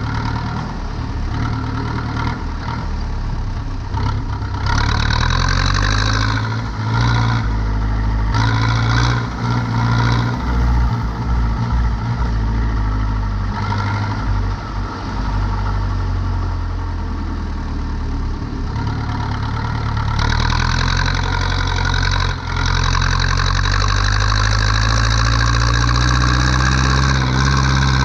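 Zetor 7245 tractor's four-cylinder diesel engine running under way. Its pitch rises and falls as the throttle changes, picking up about five seconds in and again a few seconds before the end.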